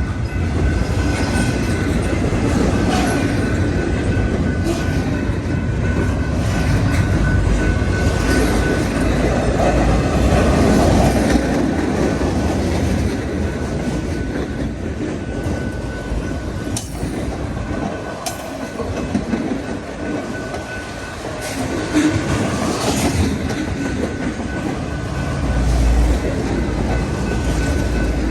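Freight cars of a mixed train rolling past at speed: a continuous rumble of steel wheels on rail, with clickety-clack over the rail joints and a thin high whine that comes and goes.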